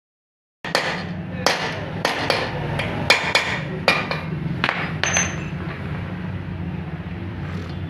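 Sharp metallic knocks and taps, about ten of them spread over the first five seconds, with a steady low hum underneath.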